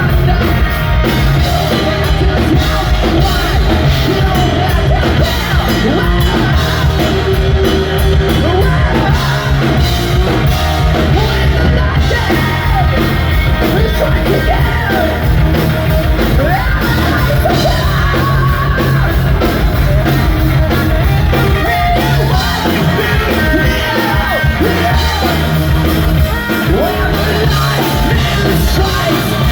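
Hard rock band playing live at full volume: distorted guitars, bass and drums, with a male singer's shouted, sung vocals over them.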